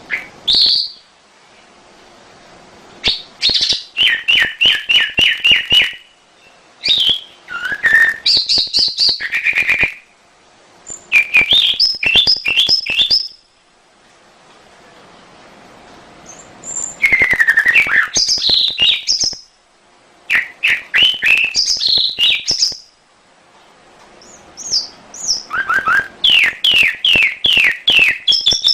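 Domestic canary singing in phrases of quickly repeated notes. Each phrase lasts one to three seconds, with short pauses between them, and the pitch changes from phrase to phrase.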